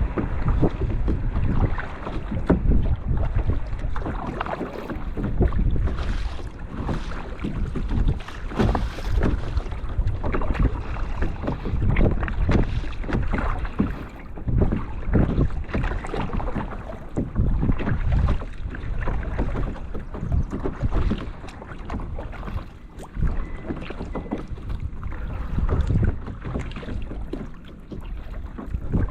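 Kayak being paddled: paddle blades dipping and splashing in calm water in an uneven rhythm, with wind rumbling on the microphone.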